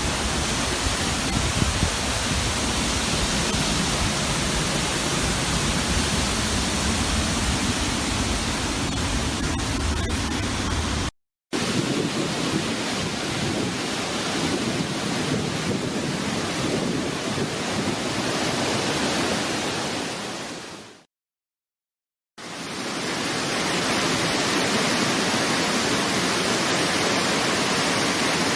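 Waterfall: a steady, dense rush of falling water. It is broken twice by short silences, about 11 seconds in and again just after 21 seconds following a fade-out. The first stretch carries a heavier low rumble than the rest.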